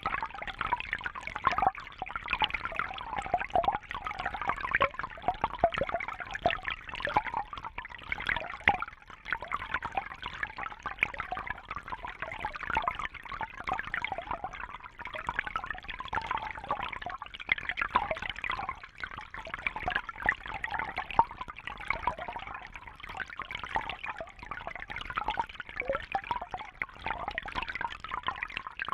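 Water trickling and bubbling steadily, a dense patter of many small splashes and drips with no break.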